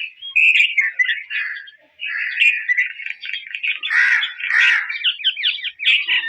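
A bird chirping and chattering in quick runs of notes, with a short pause about two seconds in and two louder, harsher calls a little past the middle.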